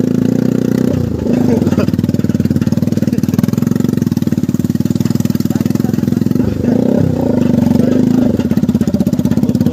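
Motorcycle engine running while riding, its note shifting with the throttle about a second in and again between about six and a half and eight seconds.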